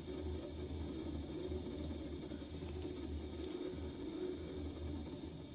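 Window air conditioner running, its compressor and fan giving a steady low hum.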